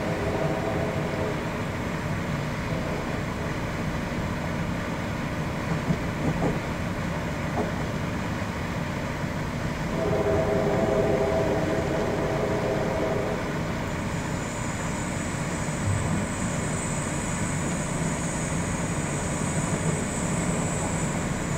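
Amtrak Crescent passenger train running, heard from inside a passenger car: a steady rumble of wheels on rail. A held multi-note tone sounds briefly at the start and again for about three seconds near the middle. A thin high hiss comes in about two-thirds of the way through.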